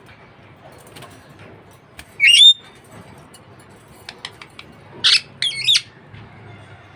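Budgerigar calling: a loud, sharp chirping squawk about two seconds in, a few soft clicks, then another couple of chirps about five seconds in.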